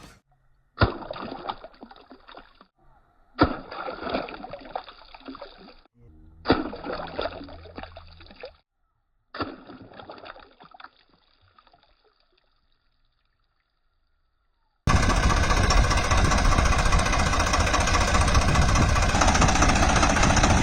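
Water splashing and trickling in four short bursts, each starting with a sudden splash and dying away. About fifteen seconds in, a loud steady sound takes over.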